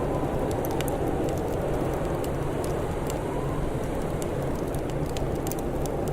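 Wood fire crackling with sparse, sharp pops, over a steady low rushing background of wind or rain ambience.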